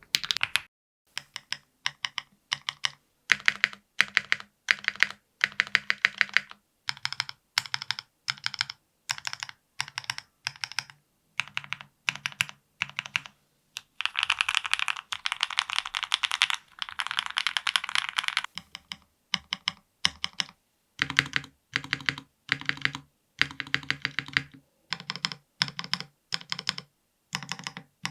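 Stabilized keys of a NEO70 custom keyboard (PC plate, full foam, Gateron Milkshake linear switches) pressed and released one at a time, each stroke a short clack. There is a faster run of presses about halfway through.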